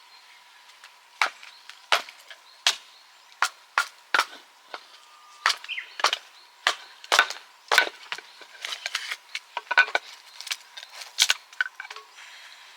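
Firewood snapping and cracking in a rapid, irregular series of sharp loud cracks, bunched more closely through the middle.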